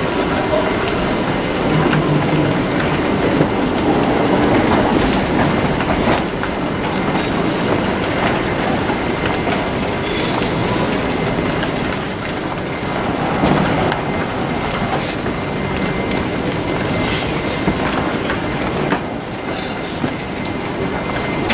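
Train ride heard from inside a rail car: a steady rumble of wheels on track with scattered clacks and a faint steady whine.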